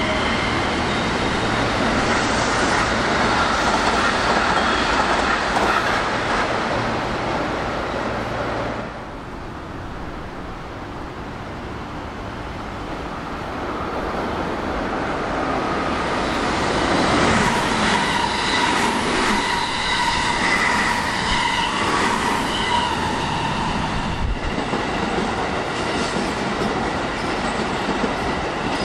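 Electric commuter trains running past. The first clatters over the rail joints and drops away about nine seconds in. A second comes up and passes from about seventeen seconds in, with a steady high whine over the rumble.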